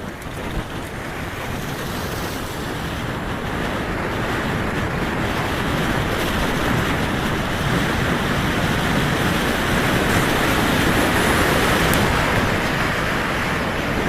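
Wind rushing over the microphone of a rider on the move, a steady roar that builds over the first several seconds and then holds.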